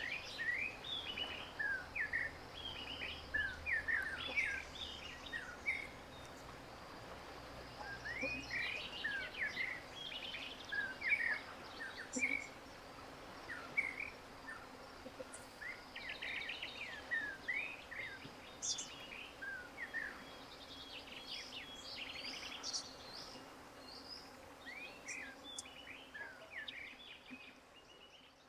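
Birds singing outdoors: many short chirps and whistled notes overlapping in a busy chorus, with a few quick rattling trills mixed in.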